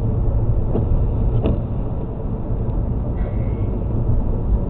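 Steady low rumble of a car driving on a wet road, heard from inside the cabin, with a few faint clicks and a brief high tone about three seconds in.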